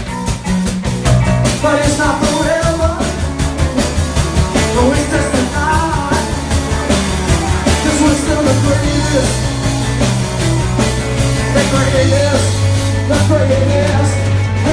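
Live rock band playing a song: singing over guitars and bass, with a steady beat.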